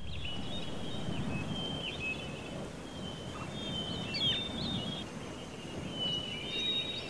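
Birds chirping: short, high calls scattered throughout, over a steady low outdoor background noise.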